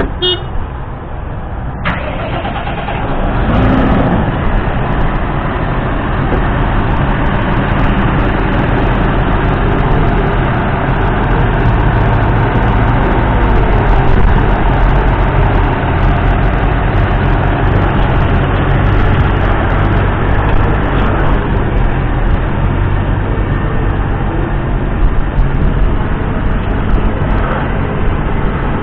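Claas Arion 650's 6.8-litre six-cylinder diesel engine running. It grows louder about three seconds in, then holds steady and loud.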